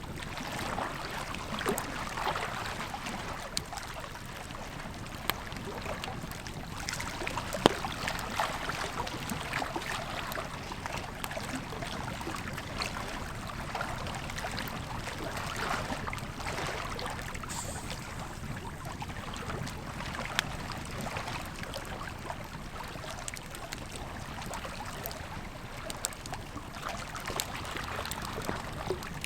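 Campfire crackling with scattered sharp pops, one louder than the rest about a third of the way in, over the steady rush of flowing river water.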